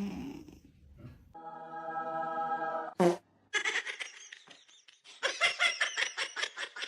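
A steady buzzy tone lasting about a second and a half, a sharp click, then a stretch of rapid, pulsing laughter at about five bursts a second.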